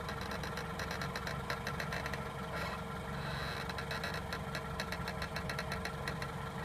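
Car engine idling steadily, with a brake caliper creaking in rapid runs of short clicks as the brake pedal is pressed slowly.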